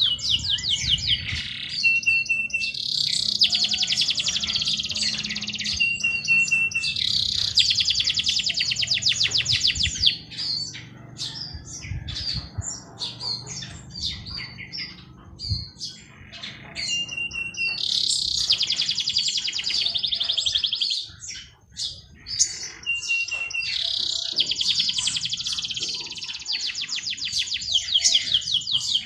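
A songbird singing in repeated phrases: a short steady whistled note, then a fast trill of rapid notes lasting a few seconds, given about five times, with scattered chirps between the phrases.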